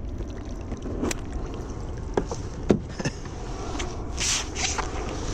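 Steady low rumble, like wind on the microphone, with several sharp knocks about two to three seconds in and a short hiss a little later.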